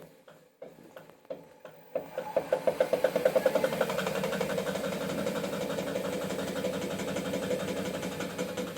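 Hotpoint-Ariston washing machine drum starting to spin about two seconds in. A loud rhythmic knocking speeds up with the drum, then settles into a fast, even knock. The knock comes from the drum pulley wobbling on its shaft because its retaining bolt has worked loose.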